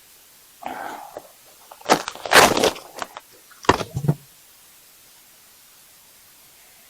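Clattering knocks of hard objects being handled: a loud jumble of knocks about two seconds in, two more sharp knocks about a second later, then quiet.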